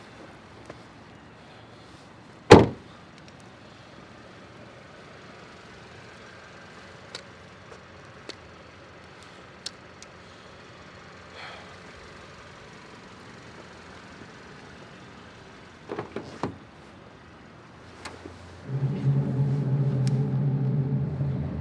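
A single loud slam, a car door shutting, about two and a half seconds in, then a couple of knocks around sixteen seconds. From about nineteen seconds a loud, steady, pitched motor hum runs until it cuts off near the end.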